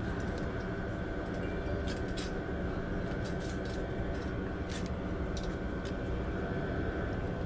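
Steady low rumble with a thin, steady high tone and scattered light clicks, like a vehicle running.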